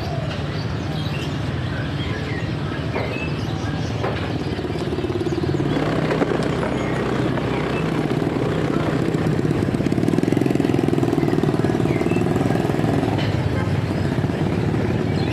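Motorcycle engine running while riding, picking up revs about six seconds in and swelling again around ten seconds.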